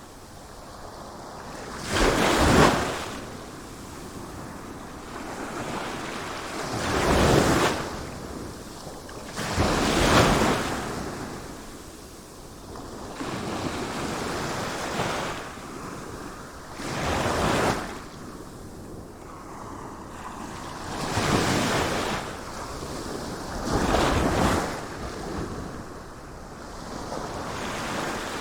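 Sea waves breaking on a shore: a wave crashes every few seconds, with the hiss of surf washing back between them. The loudest crash comes about two seconds in.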